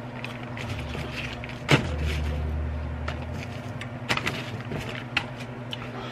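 Close-miked chewing of a mouthful of cheeseburger, with scattered clicks and crinkles as food and paper wrapping are handled. There is a sharp knock just under two seconds in, all over a steady low electrical hum.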